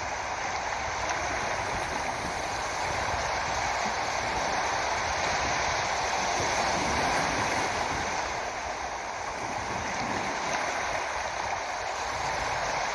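Steady rushing water, a continuous even wash of noise with no distinct splashes.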